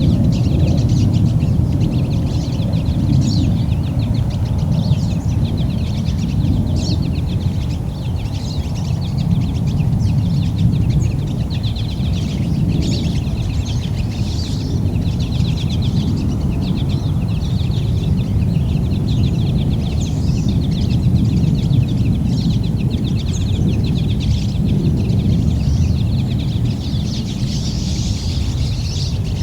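Winter field recording of small songbirds calling over and over, with short high trilled notes all through, over a steady low rumble.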